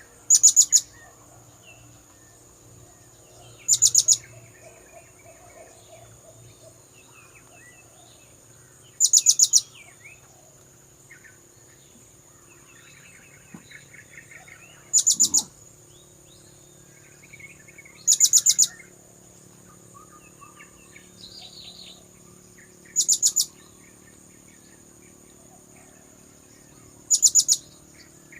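Blue-crowned hanging parrot (serindit) calls used as a bird-catcher's lure: seven short bursts of rapid, very high-pitched notes repeated every few seconds, over a steady high whine and faint chirps of other birds.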